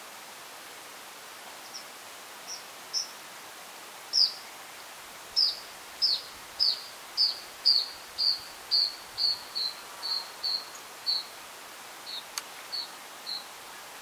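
A bird calling: a series of short, clear notes, each sliding down, about two a second, sparse at first, then steady, slowly falling in pitch and fading near the end. Underneath is a steady hiss.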